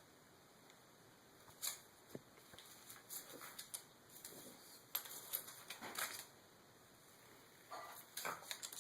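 Paper rustling and scraping in irregular short bursts as a dog rubs and rolls on paper perfume samples, with a quiet pause just after the middle.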